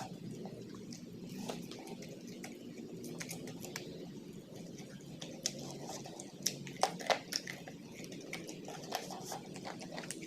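Person chewing and biting food close to the microphone, with scattered wet smacks and clicks, loudest about six and a half to seven seconds in, over a steady low background noise.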